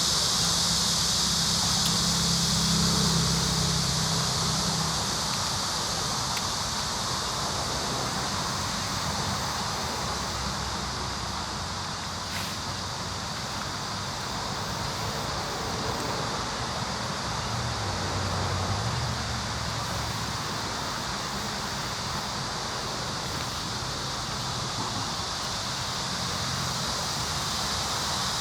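Steady outdoor ambience dominated by a continuous high-pitched insect drone, with a faint low hum in the first few seconds and again about two-thirds of the way through.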